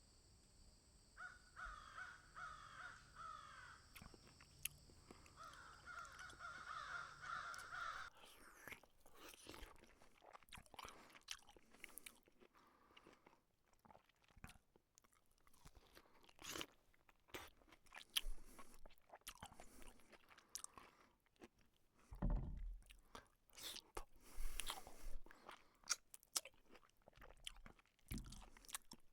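Cats chewing and crunching food, with irregular small clicks and a few low thumps about two thirds of the way through. For the first several seconds a run of repeated harsh calls, caw-like, sounds over a steady high-pitched tone, and then stops.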